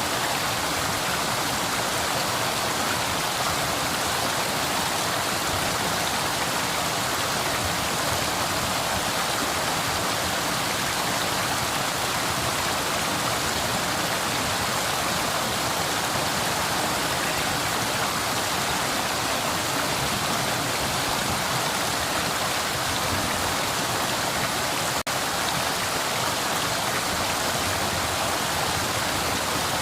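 River water flowing steadily, a constant even rush of running water. There is one momentary gap in the sound late on.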